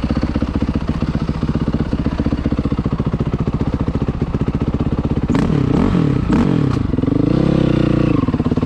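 Dirt bike engine idling with even, rapid firing pulses, then revved up and down from about five seconds in, with a few sharp knocks as the revs rise.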